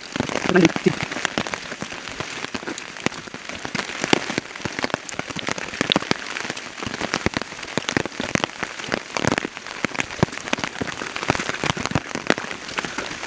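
Steady rain, with dense, irregular sharp taps of raindrops striking close by.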